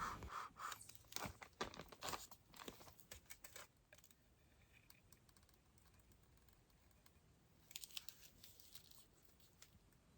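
Faint scattered clicks and rustles of hands handling materials at a work surface, thickest in the first few seconds, then a brief cluster again near the end.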